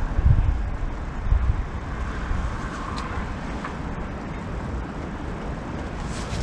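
Strong wind buffeting the microphone outdoors, a low rumbling rush that gusts hardest in the first second or two, then steadies.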